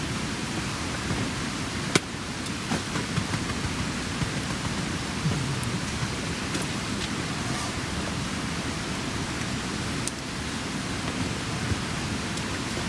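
Wood campfire burning: a steady hiss of flames with scattered sharp crackles, the loudest pops about two seconds in and near ten seconds.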